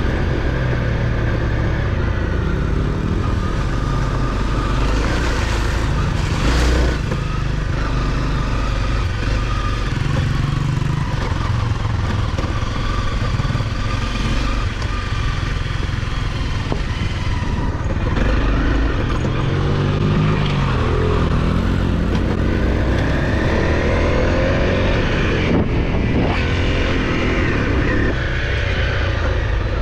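Off-road motorcycle engine running under way on a dirt trail, its pitch rising and falling with the throttle.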